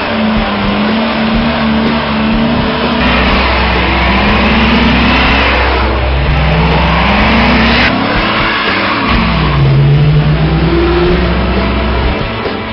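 Dodge Charger police car's engine revving hard during a burnout, its pitch climbing and falling several times, over a loud rushing noise of spinning tyres.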